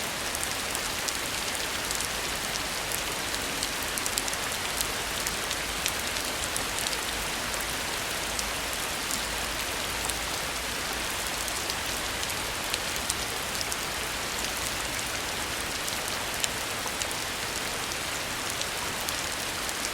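Heavy rain falling steadily, an even hiss dotted with frequent sharp taps of single drops.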